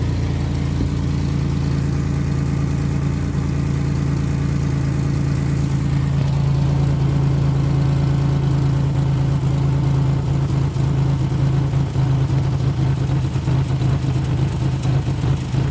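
Nissan Frontier pickup engine idling roughly at low rpm, its steady running note dipping and stumbling unevenly in the second half: a rough idle that only shows at low rpm and clears when given gas.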